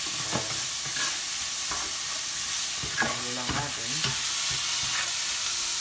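Chopped tomato, onion, garlic and pork sizzling in hot oil in a stainless steel pot, with a spatula stirring and scraping across the pot's bottom in irregular strokes. This is the sauté stage of the dish's base.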